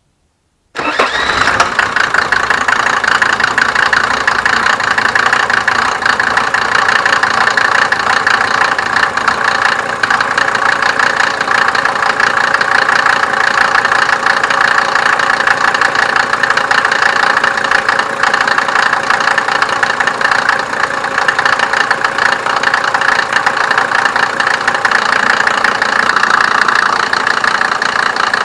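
Mercedes OM602 2.5-litre five-cylinder turbo diesel engine running steadily at idle. The sound comes in suddenly about a second in and stays at an even level.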